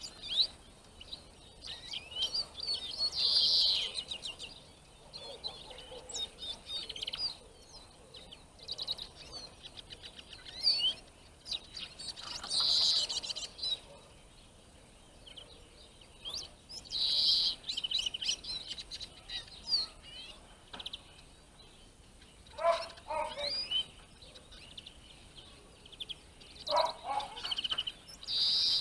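Small songbirds chirping and twittering in short bursts every second or two, with a couple of lower, rougher calls near the end.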